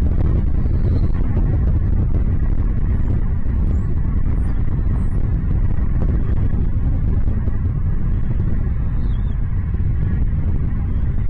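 Steady, loud low rumble with a few faint, short high chirps of small birds scattered through.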